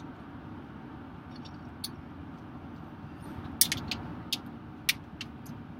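Steady road and engine rumble inside a moving pickup truck's cabin, with a few sharp, irregular clicks between about three and a half and five seconds in.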